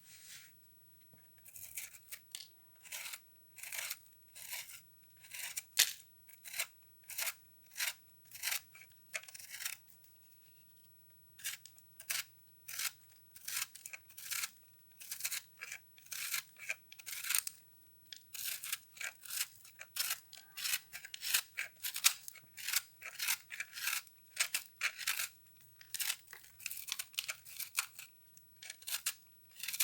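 Brittle microwave-puffed soap crunching as it is broken up, a long run of short crisp crackles. There is a gap of a second or two near the middle, after which the crackles come thicker and faster.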